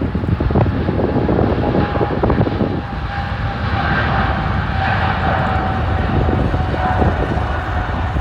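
GE90 jet engines of a Boeing 777-300ER at takeoff power: a heavy steady roar with a whine that slowly drops in pitch. Gusty wind buffets the microphone with low rumble.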